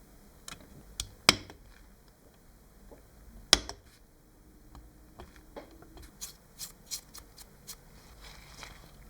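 Hard objects knocking and clicking: two sharp knocks a couple of seconds apart, each ringing briefly, then a run of lighter quick clicks.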